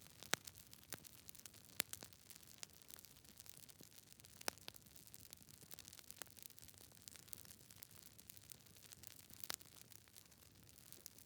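Campfire crackling: irregular sharp pops and snaps over a faint soft hiss, the loudest pops in the first couple of seconds.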